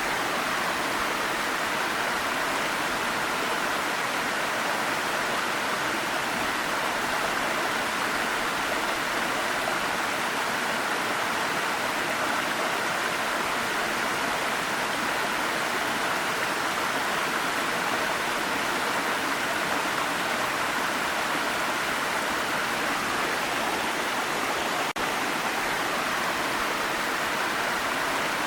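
Waterfall pouring steadily: an even, unbroken rush of falling water, with a split-second dip about 25 seconds in.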